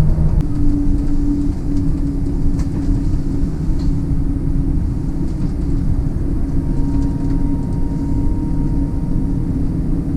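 Scania battery-electric bus on the move, heard from inside the cab: a steady low rumble of road and running noise with a steady hum held at one pitch.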